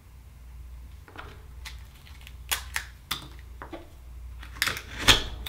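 Akoya oyster shells and a small hand tool clicking and knocking as the next oyster is opened. About eight sharp clicks come at uneven intervals, the loudest near the end.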